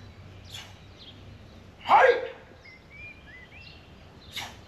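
Open-air ambience with faint birds chirping, broken by a short loud call whose pitch falls, about two seconds in, and a few short soft hissing sounds.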